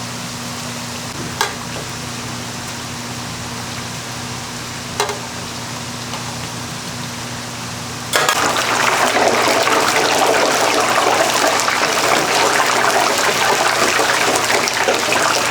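A low steady hum with two sharp clicks, then about 8 s in a sudden loud, dense crackling sizzle as twisted doughnut dough goes into hot deep-frying oil.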